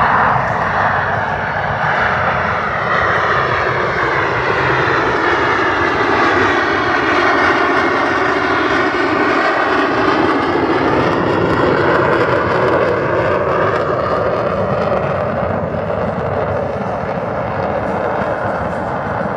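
Boeing F/A-18 Super Hornet's twin jet engines during a pass in carrier configuration, gear and tail hook down: loud, continuous jet noise with the sweeping pitch of a flyby, closest about halfway through.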